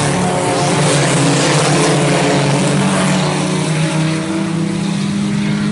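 IMCA Sport Compact race cars' four-cylinder engines running hard on a dirt oval, a loud steady drone of several engines together.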